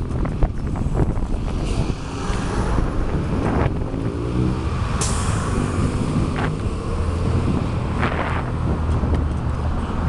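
Wind buffeting the microphone during a bicycle ride, with road traffic; a motor vehicle's engine passes partway through.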